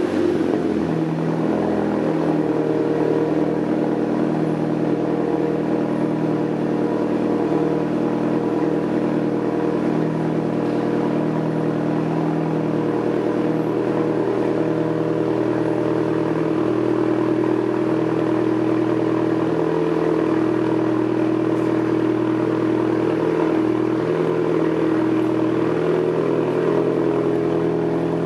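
VW Jetta MK6 2.0 TSI turbocharged four-cylinder idling steadily just after a cold start, through a straight 3-inch exhaust with the mufflers removed, giving a loud, raw idle note.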